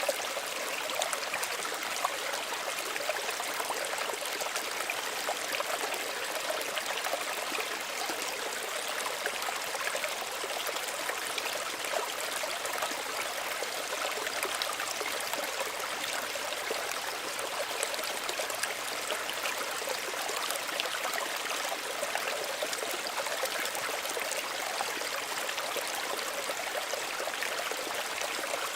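Small stream running steadily, water trickling and burbling over stones.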